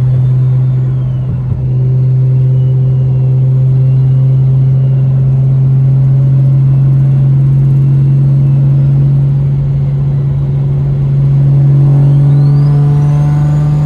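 BMW N54 inline-six with a DocRace single-turbo kit and a fully straight-piped exhaust, heard inside the cabin with the windows up: a steady low exhaust drone while cruising, typical of a straight-pipe system. About twelve seconds in the drone climbs a little and gets louder, and a high whistle rises and falls away near the end.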